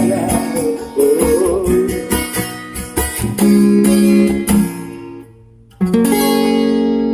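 Acoustic guitar strumming the closing bars of a song, fading briefly, then one final strummed chord that rings out.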